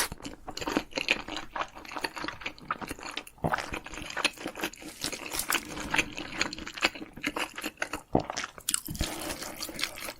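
Close-up eating sounds: a person biting and chewing crunchy food, a dense, irregular run of crisp crunches and wet chewing clicks.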